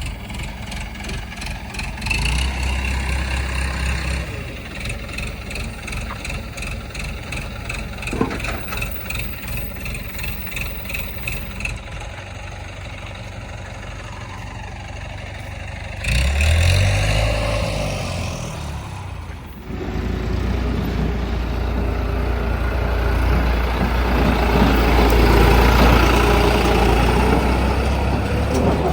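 Heavy diesel engines of a backhoe loader and tipper trucks running at a loading site. The engine note swells and shifts pitch a little past the middle, then runs louder and rougher for the last third.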